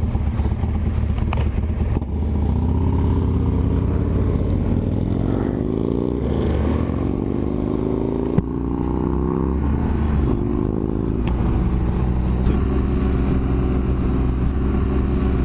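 BMW R1200GS Adventure's boxer-twin engine pulling through the gears, heard through a helmet-mounted mic: its pitch rises with the revs and drops at gear changes about six and a half and ten seconds in. A single sharp click about eight seconds in.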